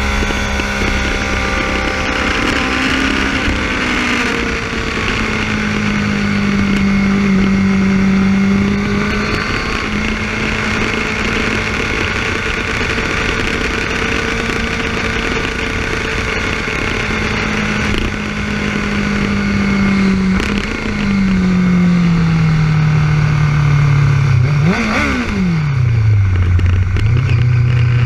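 Yamaha R6 inline-four sport-bike engine running at speed with wind rush, its pitch slowly rising and falling with throttle. About twenty-five seconds in, the note jumps up sharply and drops away as the bike slows, settling into a lower steady note near the end.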